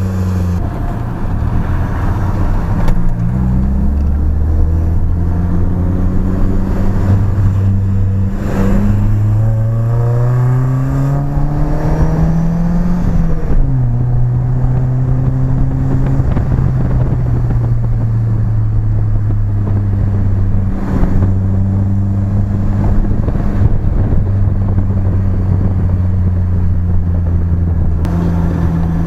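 BMW E30's engine through its new exhaust, driving: it runs steady, then rises in pitch under acceleration from about 8 to 13 seconds in, drops sharply at an upshift and settles into a steady cruise.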